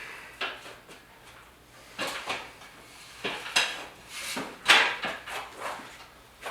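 Irregular clunks, clicks and rattles of hands and tools handling a metal 8-foot LED light fixture during installation, with the loudest knock a little before five seconds in.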